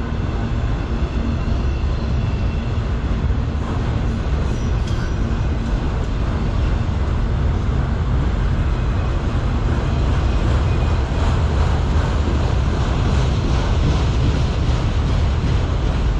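Freight train of autorack cars rolling steadily past, the wheels on the rails making a continuous loud rumble, with a faint high squeal in the first few seconds.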